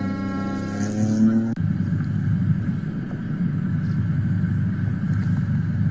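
A rally car's engine revving, its pitch rising, until an abrupt cut about a second and a half in. After the cut there is a steady low rumble.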